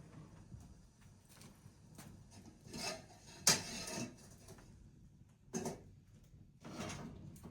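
Objects being handled: a few short scrapes, with one sharp knock about halfway through.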